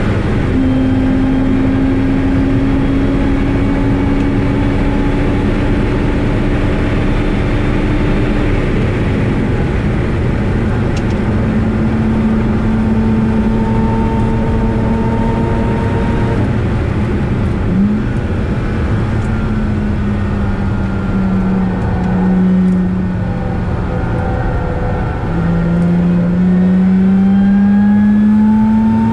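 Lotus Exige S V6's supercharged 3.5-litre V6 engine under hard driving on a race track, heard from inside the cabin over steady tyre and wind noise. The engine note climbs slowly for about eight seconds, drops sharply near nine seconds as the car slows for a corner, holds fairly steady through the middle, and rises again and gets louder near the end as it accelerates.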